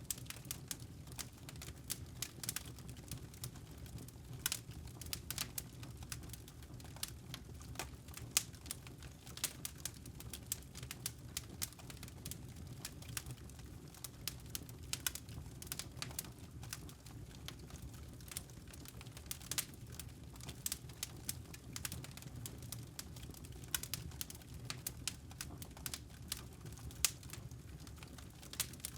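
Campfire of burning wood logs crackling, with irregular sharp snaps and pops over a steady low rumble of the flames.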